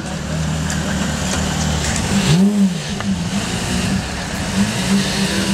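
Porsche Carrera GT's 5.7-litre V10 idling, with one quick throttle blip about two and a half seconds in, its pitch rising and falling back within half a second.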